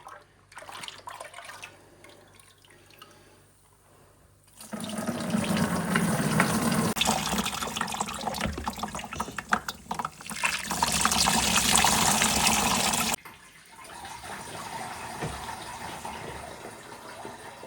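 Water running from a tap into a sink. It starts about five seconds in, runs strongly and cuts off suddenly about thirteen seconds in, and a quieter steady running sound follows.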